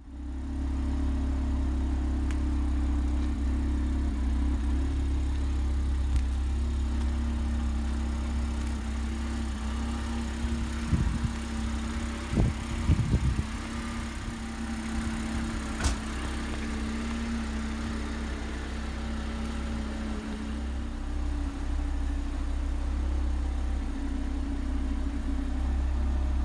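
A 2015 Audi RS3's turbocharged five-cylinder engine idling steadily. A few knocks come about halfway through, and a single sharp click follows a few seconds later.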